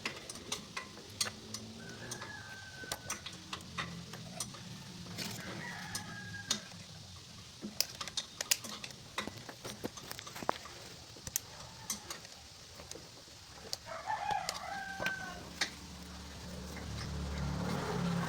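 A rooster crowing a few times in the background, over frequent sharp metallic clicks and taps from the hand assembly of a starter motor. A low hum swells near the end.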